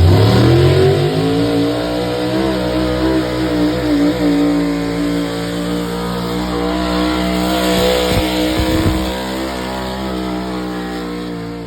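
A pulling vehicle's engine is revved hard as the pull starts, its pitch climbing in the first second. It then runs at high revs under full load while dragging the weight sled, wavering slightly, and fades near the end as the run finishes.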